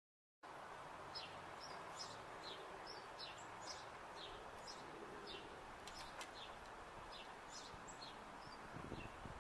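Small birds chirping over a steady outdoor hiss, short high chirps about two a second, starting about half a second in.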